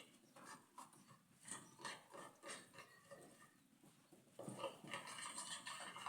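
Faint rustling and light clicks, growing busier and a little louder for the last couple of seconds.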